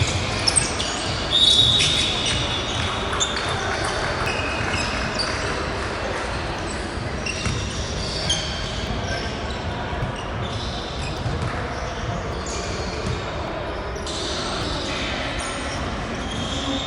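Basketball game sounds in an echoing gym: a ball bouncing on the hardwood, short high squeaks of sneakers on the court, and players and spectators calling out.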